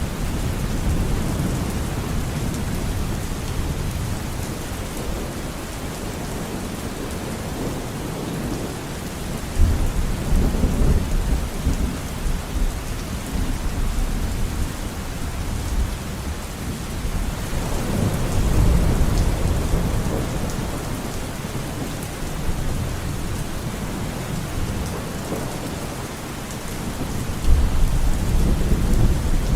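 Steady rain falling in a forest, with thunder rumbling three times: a sudden low rumble about ten seconds in, a swelling roll past the middle, and another sudden rumble near the end.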